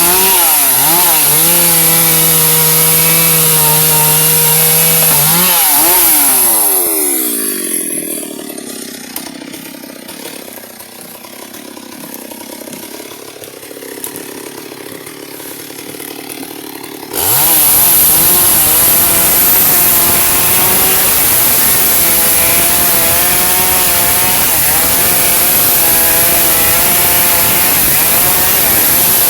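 Chainsaw engine running at high revs while cutting albizia wood, its pitch wavering under load. About six seconds in the throttle eases and the engine winds down to a quieter run for about ten seconds, then it comes back abruptly at full revs and keeps cutting.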